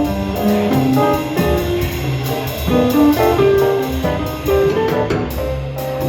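A small jazz combo playing live: a melody line of quick single notes over a walking bass, with a steady beat.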